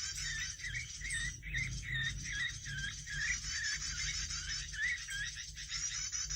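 Small songbirds calling: a continuous high twitter with a run of repeated dipping chirps, about two a second, that pauses midway and returns near the end.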